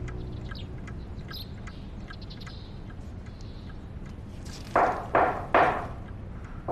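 Birds chirping faintly, then three loud knocks on a door near the end.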